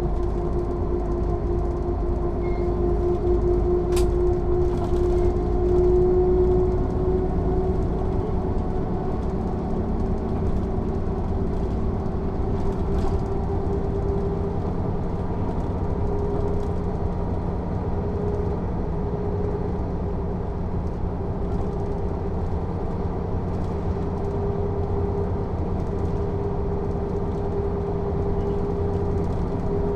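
Mercedes-Benz O 407 city bus's six-cylinder diesel engine running under way, a steady drone and low rumble whose pitch rises slightly over the first dozen seconds and then holds. A single sharp click about four seconds in.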